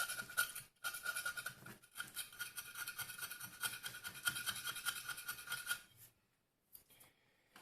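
Rapid scratching and scraping on a Tefal iron's electrical contact as it is cleaned, because the contact shows no continuity. There are short breaks about one and two seconds in, and the scraping stops about six seconds in.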